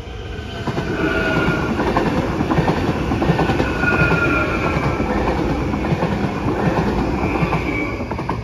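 A Stadler FLIRT electric multiple unit passing close by over a level crossing: a loud running rumble with wheels clattering over the rail joints and high wheel squeals. It swells about a second in and fades near the end.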